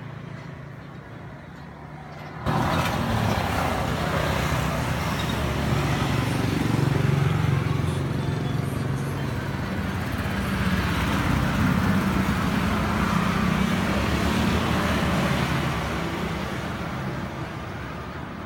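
Suzuki Satria two-stroke motorcycle engine running through a full stainless-steel underbelly aftermarket exhaust, its pitch climbing and dropping as the throttle is blipped. It is quieter at first, jumps louder about two and a half seconds in, and eases off near the end.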